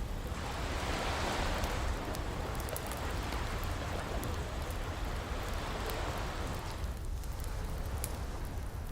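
An ocean wave washing in and drawing back: a hiss that swells over the first two seconds, holds, and ebbs away near the end. Under it a low rumble of surf, and a wood fire crackling with scattered sharp pops, clearest as the wave recedes.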